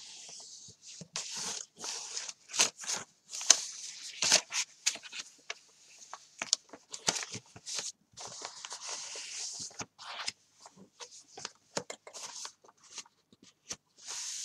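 Pages of an old paperback being folded and creased by hand: an irregular run of crisp paper rustles, swipes and short crackles as each page is bent over and pressed flat.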